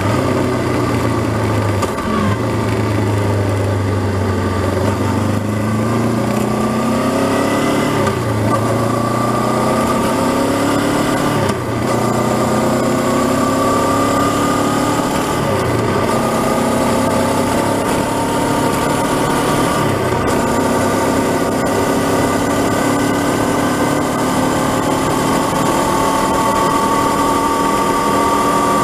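Honda CB500X's parallel-twin engine under way, its pitch climbing through the gears with two brief breaks for shifts in the first dozen seconds, then pulling steadily and rising slowly. Wind and road noise run beneath it.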